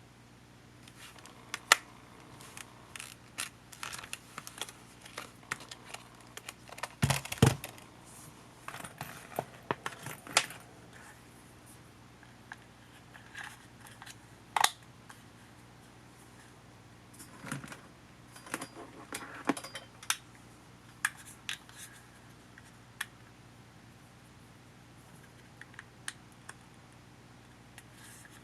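Irregular small clicks, taps and clinks of tools and small plastic and metal parts being handled while a Panasonic HA-WA10 camcorder is taken apart. There is a heavier knock about seven seconds in, and the clicking thins out over the last few seconds.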